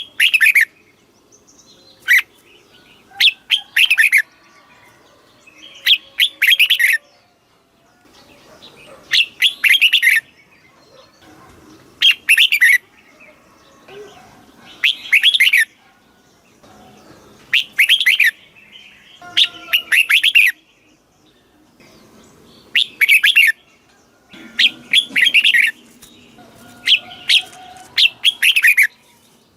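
Red-whiskered bulbul singing short, loud, chirpy song phrases over and over, one every two to three seconds, each a quick run of bubbling notes.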